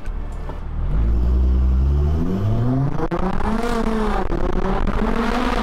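Tuned Nissan R35 GT-R's twin-turbo V6 with a titanium exhaust, accelerating hard: the engine note climbs steadily for a couple of seconds, dips briefly about four seconds in, then climbs again.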